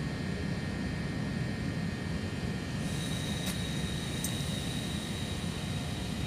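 Steady low rumble inside a passenger train carriage as the train runs. A faint high whine comes in about three seconds in.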